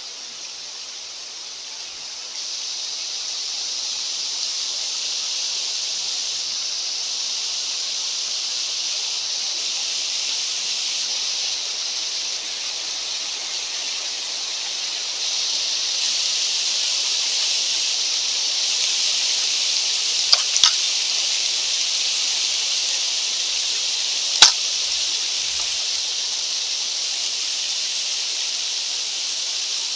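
Steady high hiss of wind on a mountainside, growing louder about two seconds in and again about halfway through. Two quick sharp clicks come about twenty seconds in, and a single louder click follows about four seconds later.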